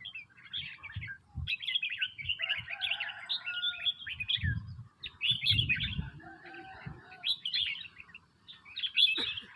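Red-whiskered bulbuls chirping in quick bursts of about a second with short pauses between, with a few low dull thumps underneath.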